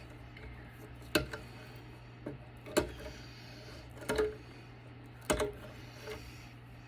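About six sharp clicks and light knocks, a second or so apart, from wires being snipped and parts handled while taking apart a battery backup unit.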